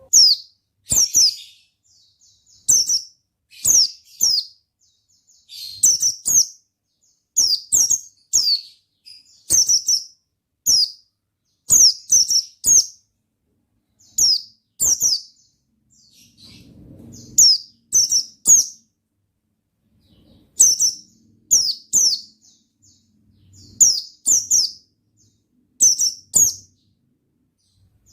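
Pleci (white-eye) calling: quick, high, downward-sweeping chirps in pairs and triplets, repeated about once a second.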